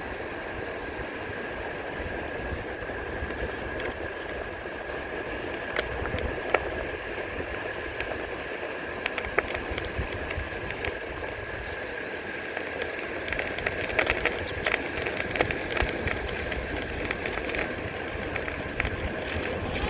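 A Onewheel rolling along the beach: wind rumbling on the microphone and surf washing, with scattered crackles of shells crunching under the tyre, denser in the second half, over a steady high whine.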